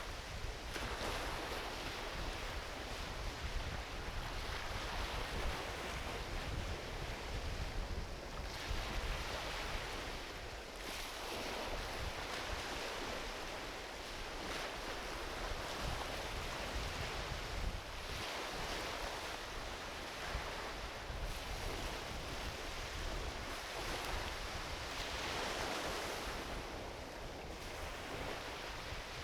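Small ocean waves washing onto a beach, the surf hiss swelling and fading every few seconds, with a low wind rumble on the microphone.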